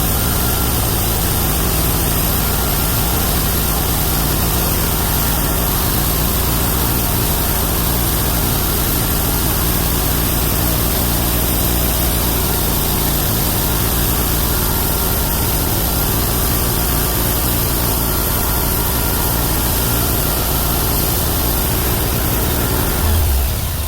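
Homemade bandsaw mill running on its 31 hp engine, the carbide-tipped band blade sawing through a Chinese toon log with a steady, dense noise over the engine's hum. Near the end the sawing noise drops away and a steadier engine note is left, as the blade comes out of the cut.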